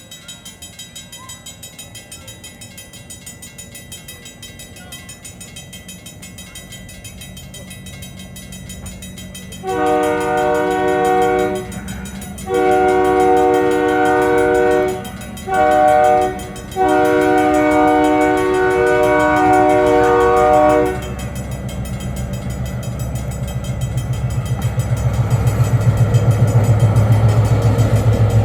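Locomotive No. 136 sounding its horn in the grade-crossing signal: long, long, short, long, starting about ten seconds in. After the last blast the train's low running rumble grows steadily louder as it approaches.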